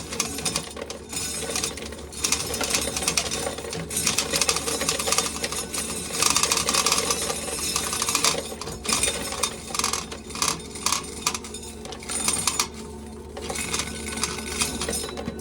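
Corn sheller stripping kernels off a cob: a dense, fast rattle of kernels clattering, loudest a little past the middle. An old electric fan hums steadily underneath.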